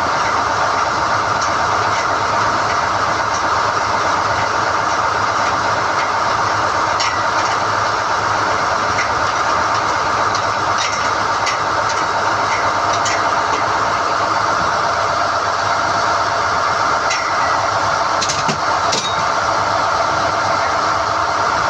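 SDH-1600 core drilling rig running steadily under load while it hoists NQ drill rods, with scattered sharp metallic clinks, several close together near the end.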